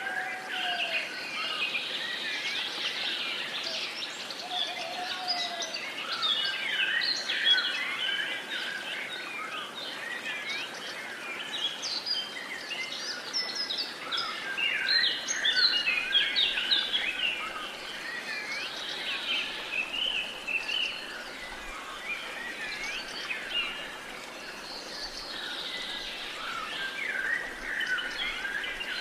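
A chorus of many birds chirping and calling at once, with quick overlapping notes throughout, over a steady background hiss of outdoor ambience.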